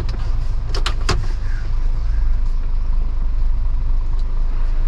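Vehicle engine running with a steady low rumble, with a few sharp clicks about a second in.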